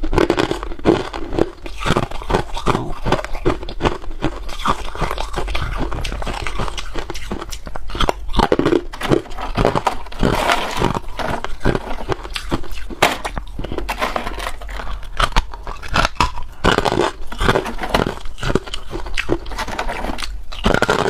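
A person biting and chewing hard clear ice, making a rapid, irregular run of crunches and cracks.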